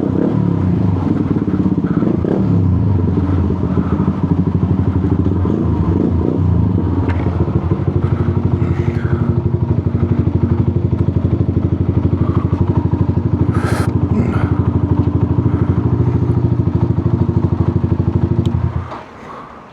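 125cc motorcycle engine running steadily at low revs as the bike creeps forward, with a fast, even pulse and a few light knocks, then switched off shortly before the end.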